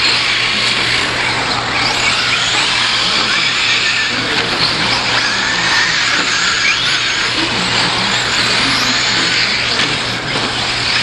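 A field of 4WD radio-controlled short course trucks racing together, their high motor whines overlapping and rising and falling with the throttle.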